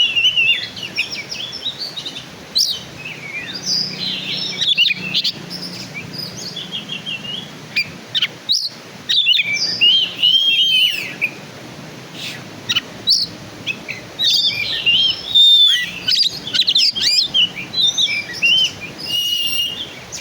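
Oriental magpie-robin (kacer, black-and-white form) singing: a rapid, varied run of whistles, slurred notes and chirps in short phrases broken by brief pauses.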